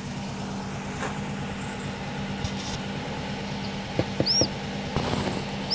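Air-cooled VW bus flat-four engine idling steadily in the background. High, thin chirps of nestling birds come twice, about four seconds in and near the end.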